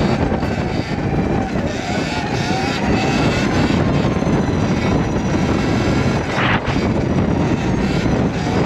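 Sur-Ron electric dirt bike being ridden, a continuous rushing of wind and tyre noise with a faint high motor whine, during a wheelie attempt.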